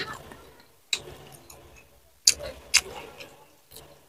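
Close-miked eating sounds: a handful of sharp, wet mouth clicks and smacks from chewing, spaced about a second apart with quiet between them.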